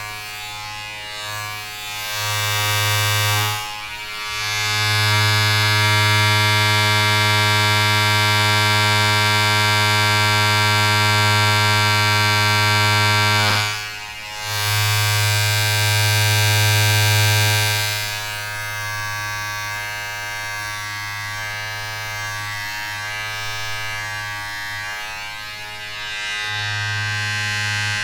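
A steady electric buzz with a strong low hum and many overtones. It swells louder and brighter for long stretches and drops briefly about four and fourteen seconds in.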